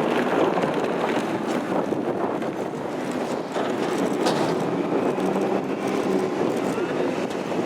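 Steady traffic noise from passing cars.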